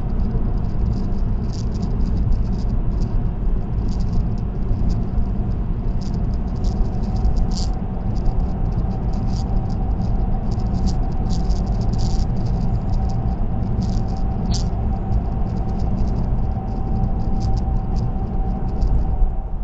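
Car cruising on an expressway, heard from inside the cabin: steady low tyre and road rumble, with a light, irregular high-pitched ticking rattle over it and a faint steady whine.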